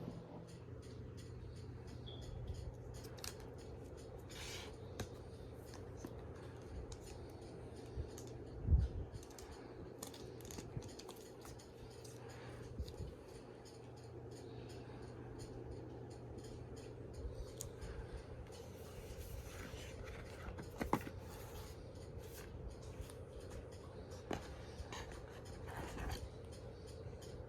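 Small clicks, scrapes and rubs of an iPad box and its packaging being handled, with one louder thump about nine seconds in, over a faint steady hum.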